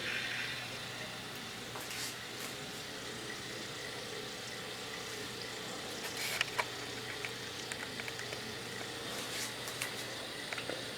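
N scale model train running at slow speed: a faint steady motor hum with a few light clicks scattered through, the loudest pair about six seconds in.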